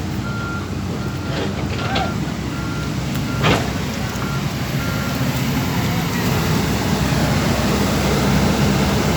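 A backhoe's diesel engine running steadily while its warning alarm beeps in a single high tone, a little faster than once a second; the beeping stops a little past halfway. A sharp knock comes about three and a half seconds in.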